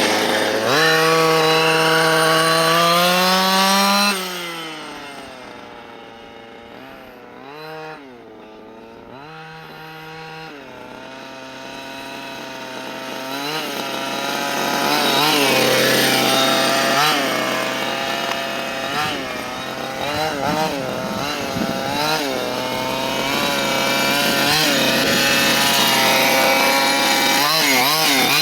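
Dynamite CY23cc 23cc two-stroke gas engine of a 1/5-scale RC buggy being run in during break-in. It revs up steadily for a few seconds, then drops off sharply and is much quieter for a while. It then comes back with repeated short throttle blips, rising and falling in pitch.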